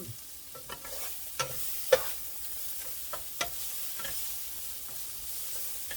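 Peppers, onions and garlic sizzling in a frying pan, with several sharp, irregular knocks of a knife on a cutting board as a tomato is sliced; the loudest knock comes about two seconds in.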